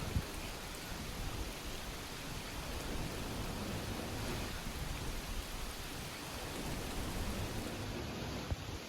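Steady rain, an even hiss with a low rumble underneath, and a soft knock just after the start and another near the end.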